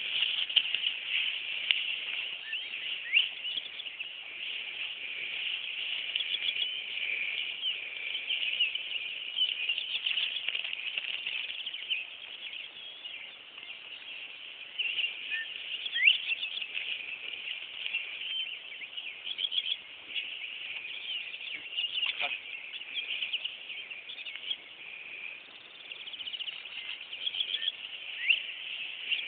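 Birds chirping and singing, many short calls and gliding notes overlapping without a break, with an occasional faint knock.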